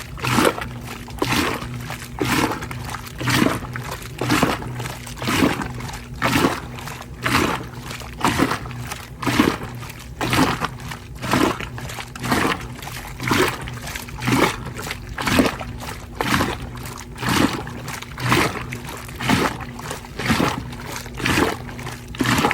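Koblenz 15 kg washing machine running a wash cycle: water sloshing and splashing in the drum in a regular rhythm about once a second, over a steady motor hum.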